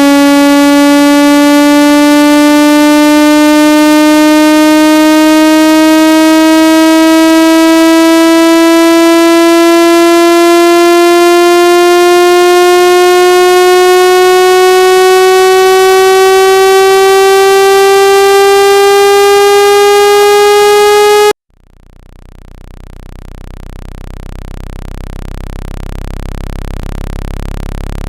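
Loud synthesized water-ejection tone, rich in overtones, sliding slowly upward in pitch, meant to shake trapped water out of a phone or earphone speaker. It cuts off abruptly about 21 seconds in, and a deep low hum then swells up in its place.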